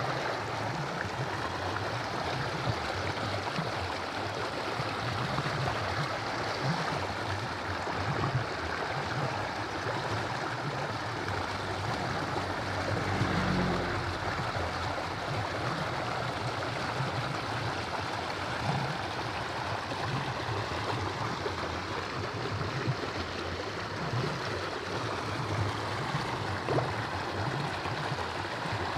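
Running water of a stream, a steady rushing.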